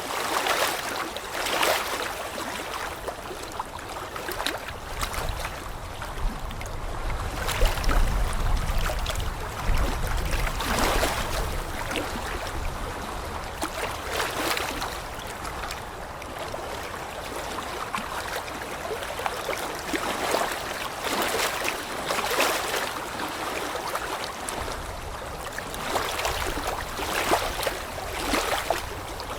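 Rushing water with no speech or music, its noise swelling and easing every second or two. A low rumble joins in about eight seconds in.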